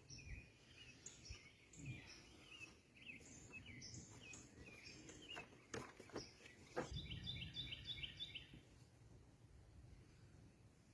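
Faint birds chirping: a scatter of short high chirps, then a quick trill of rapidly repeated notes about seven seconds in. A few light clicks come just before the trill.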